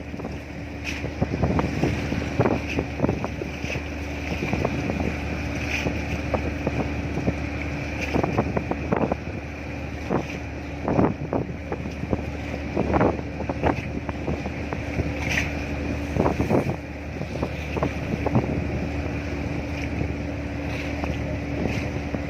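Steady low drone of a container ship under way, with wind gusting and buffeting the microphone in irregular bumps.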